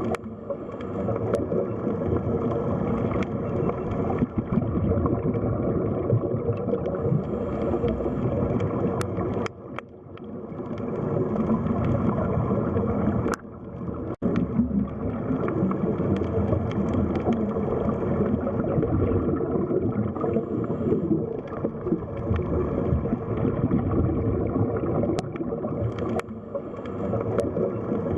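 Underwater sea ambience: a dense, rumbling wash of water with gurgling and a few faint sharp clicks. The level dips briefly twice, about ten and fourteen seconds in.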